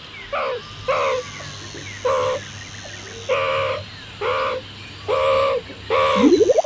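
Meerkat calls: about seven short, pitched, slightly falling yelps, roughly one a second, over a faint low hum. A quick rising glide comes near the end.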